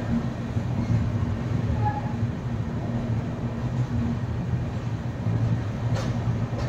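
Express passenger train running, a steady low rumble with a constant hum. Two short faint tones sound near the start and a single click about six seconds in.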